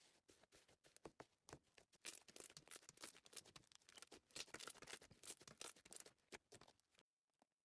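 Faint, dense crackling and clicking of slime being squished and pressed by hand, many small sharp pops in quick succession, which stops suddenly about seven seconds in.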